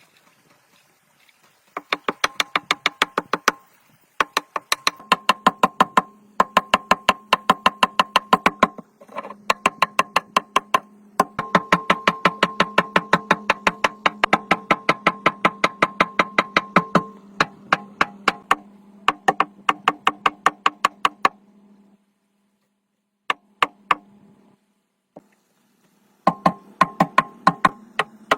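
Rapid, evenly spaced knocking on metal, about seven strikes a second with a ringing tone under it. It comes in bursts of a few seconds broken by short pauses.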